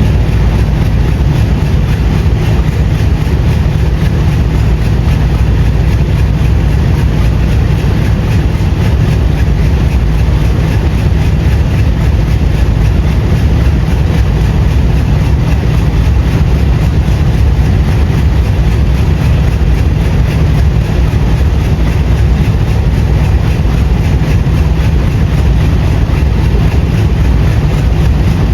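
Train running: a loud, steady rumble heavy in the low end that goes on without a break.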